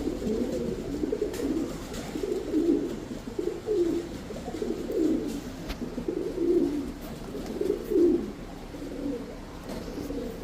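Domestic fancy pigeons cooing: a run of repeated low, rolling coos, one after another and partly overlapping.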